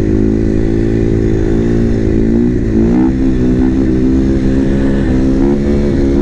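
450 cc single-cylinder supermoto engine running hard at high revs under the rider, its pitch held steady, dropping and climbing again about two and a half seconds in, then held high again.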